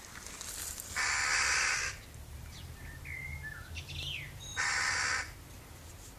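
Birds calling: two long, harsh calls, about a second in and again near five seconds, with a few short, thin chirps between them.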